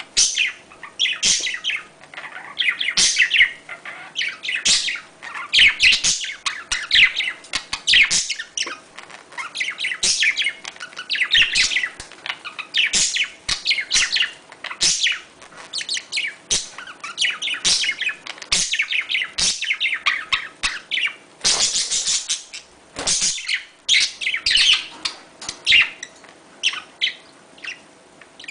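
A flock of budgerigars chattering and chirping, a dense, continuous run of quick warbling chirps and short squawks.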